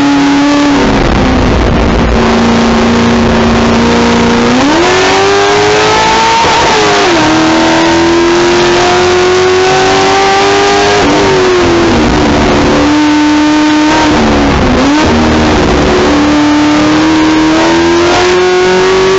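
A 2011 Corvette Grand Sport's 6.2-litre LS3 V8, heard from inside the cabin at track speed. The revs climb under full throttle and fall back several times as the car lifts and brakes for corners. There is a downshift to second about two-thirds of the way through, then the engine pulls hard again.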